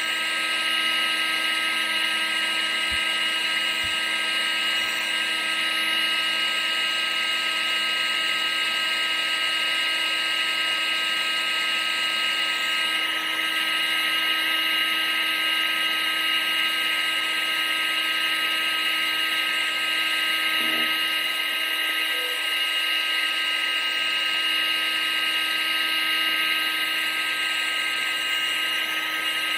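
Vacuum cleaner motor running steadily: a constant rushing whir with a high, unchanging whine.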